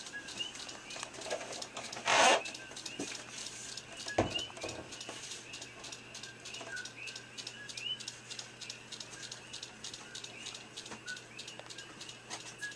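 A bird chirping over and over in short rising chirps, with one brief loud noise about two seconds in and a sharp knock a little after four seconds.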